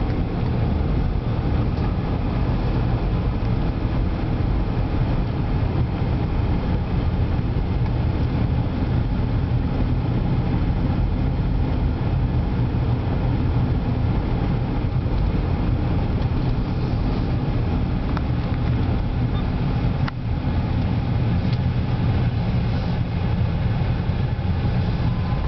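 Steady low rumble of vehicle engine and road noise in slow traffic, with one brief dip about twenty seconds in.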